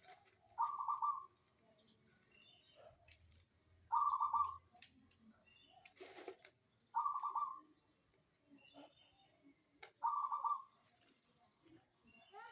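Zebra dove (perkutut) singing steadily: a short low cooing trill repeated about every three seconds, four times. Faint high chirps sound in between, and a brief rustling noise comes about halfway through.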